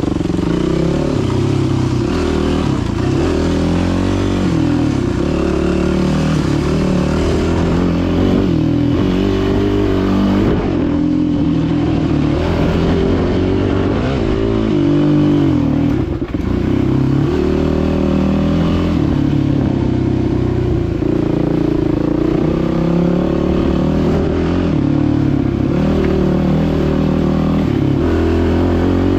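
Dirt bike engine running hard, its revs rising and falling continually as it is ridden over a trail, with a brief drop in revs about halfway through.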